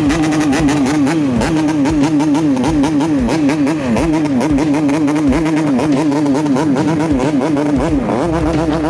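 Yamaha RX-King 135 cc single-cylinder two-stroke engine revved in quick, repeated throttle blips while riding, its pitch rising and dropping about three times a second.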